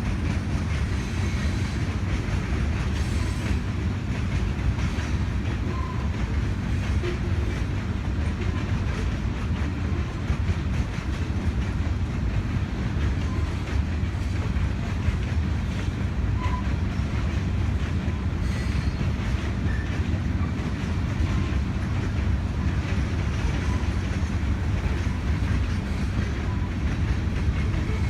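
Train cars rolling past, a steady loud rumble with the clickety-clack of wheels over the rail joints.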